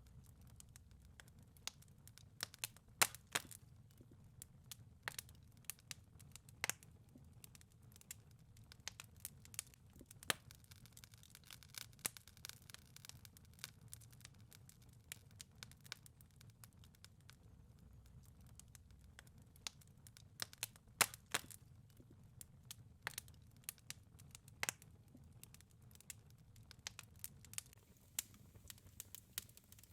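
Wood fire crackling in a fireplace: irregular sharp pops and snaps over a soft, steady low rumble of the flames. The loudest pops come about three seconds in and again around twenty-one seconds in.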